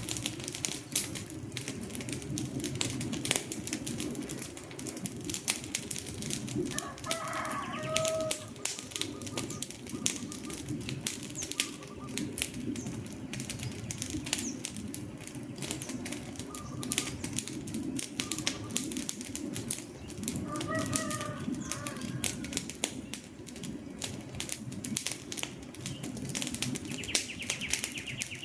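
Wood fire burning with dense crackling and popping over a low rumble of flame. Short bird calls break in twice, about a quarter and two-thirds of the way through, and a high trill starts near the end.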